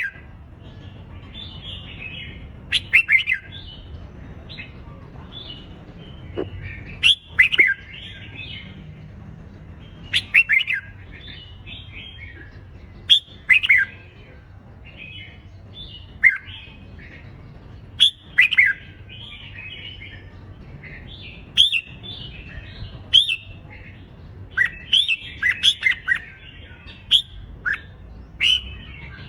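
Red-whiskered bulbul song: short, loud phrases of chirps and downward-sweeping whistled notes, repeated every two to three seconds, over a faint steady low background.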